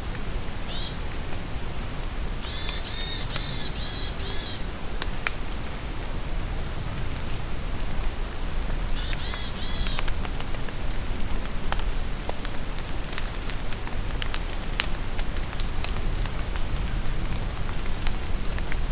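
Birds singing over steady rain: a run of quick repeated high notes lasting about two seconds near the start, and a shorter run about nine seconds in. Raindrops tick and drip in between.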